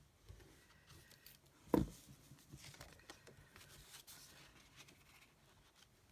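Quiet handling of paper and card on a craft table: soft rustles and small clicks, with one dull knock a little under two seconds in.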